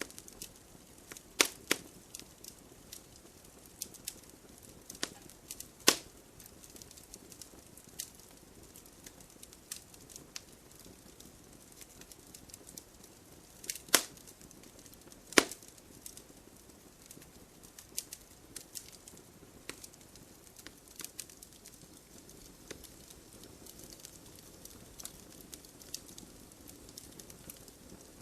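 Wood fire burning in an open fireplace, crackling with scattered sharp pops, four of them louder than the rest, over a faint low rush of the flames.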